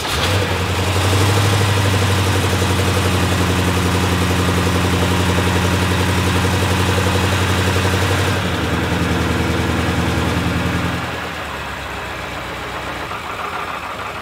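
BMW F10 M5's freshly rebuilt S63 twin-turbo V8 catching on its first start after the rebuild and running cleanly at a steady high idle. About eight seconds in the idle steps down, and near eleven seconds it drops again and runs quieter, as the engine comes out of open loop.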